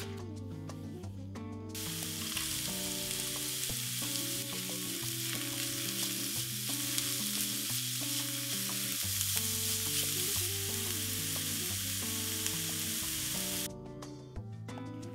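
Diced onion and carrot frying in oil in a pan: an even sizzle that starts about two seconds in and cuts off abruptly near the end. Background music plays underneath throughout.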